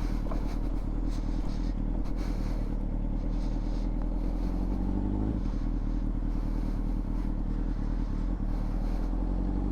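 Honda CBR600RR's inline-four engine running steadily through a Yoshimura exhaust, its note shifting slightly about halfway through.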